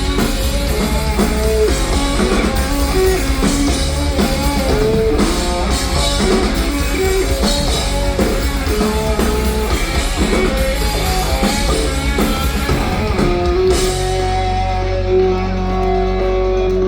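Rock band playing an instrumental passage: a guitar riff of quick melodic notes over bass and drums. About three-quarters of the way through, the cymbal hiss drops out and long notes are held.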